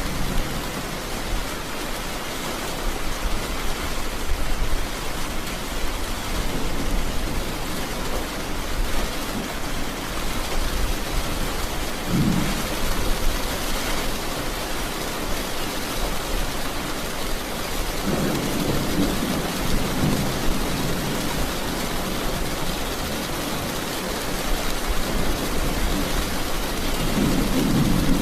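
Steady rain falling, with low rolling thunder rumbles: a short one near the middle, a longer one later on, and another at the end.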